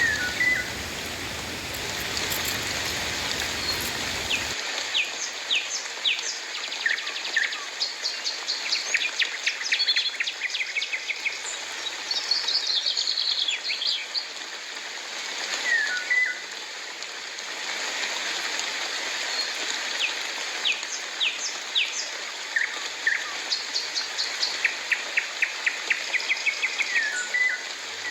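Birds chirping and trilling over a steady hiss of rain: short chirps, quick falling calls and rapid trills repeat throughout. A low rumble underneath drops away about four seconds in.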